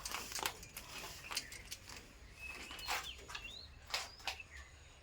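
Pet parrot making short high chirps and a few quick rising whistles, among scattered sharp clicks.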